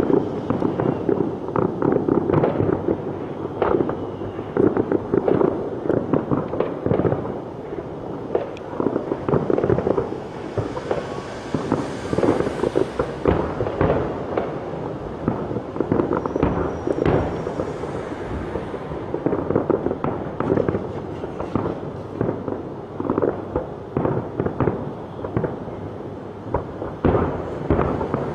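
Fireworks display: a dense, continuous barrage of bangs and crackles from many fireworks going off at once. A short high whistle comes about 16 seconds in.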